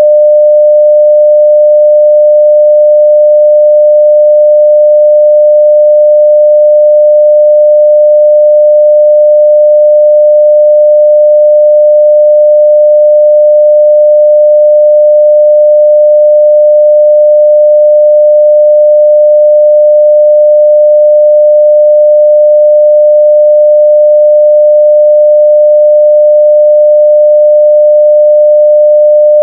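A continuous, steady 600 Hz sine-wave test tone at full level.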